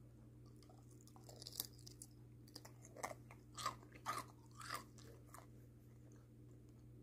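Faint chewing of a mouthful of chocolate sauce with cookie pieces, with a scatter of small crunches between about one and five seconds in, over a steady low hum.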